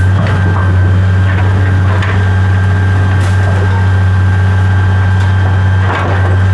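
A machine running at a constant speed: a steady low hum with a thin high whine above it and a few light knocks.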